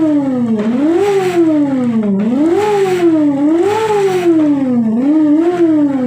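Big motorcycle engine revved again and again: the pitch shoots up, then sinks back as the throttle is let off, about five times, with no pause between revs.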